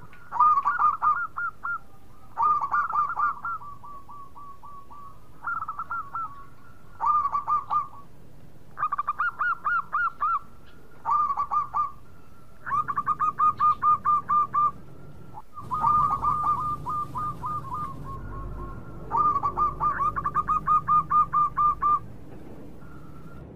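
Zebra dove calling: about ten phrases, each a quick run of short repeated cooing notes, following one another every one to three seconds.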